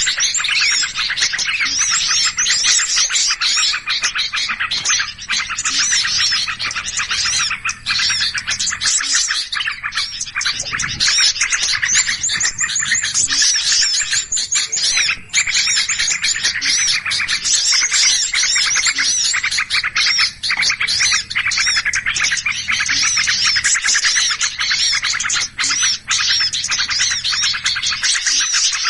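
A dense, noisy chorus of small birds chirping and twittering rapidly without a break: a bird-lure (suara pikat) call of agitated small birds, played to draw other small birds in.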